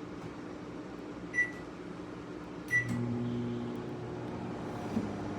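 Microwave oven keypad beeping twice as the popcorn button is pressed, then the oven starting up and running with a steady hum.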